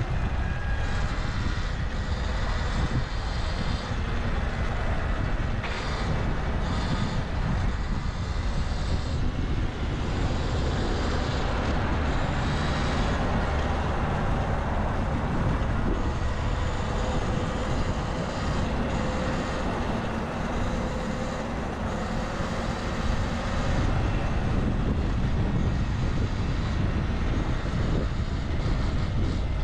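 Steady rush of wind on the microphone and road noise from riding a bicycle through city traffic. A faint engine drone passes in the second half.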